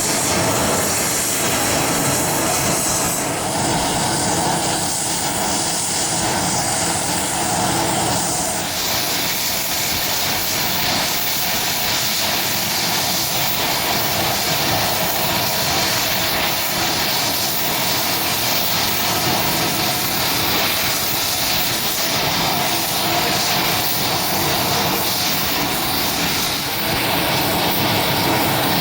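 Business jet engines running, a loud, steady noise with a strong hiss that changes in character about nine seconds in.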